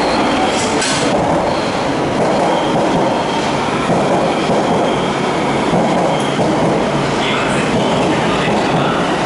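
Osaka Metro Midosuji Line subway train running along the platform, a steady loud rumble of wheels on rail with thin high wheel squeals coming and going.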